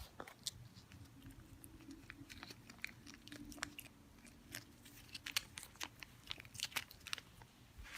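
A cat chewing and eating a food reward, a run of faint, irregular wet clicks and crunches from its mouth.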